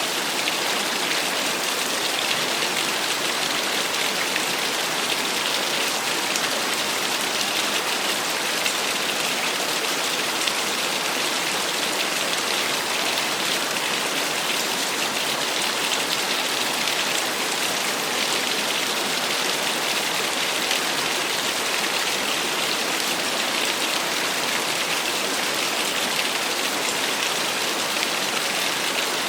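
Small waterfall: a steady, unbroken rush and splash of falling water.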